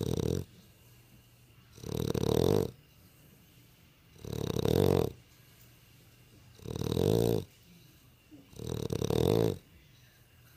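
Dog snoring in its sleep: the tail of one snore at the start, then four more, one a little over every two seconds, each lasting under a second.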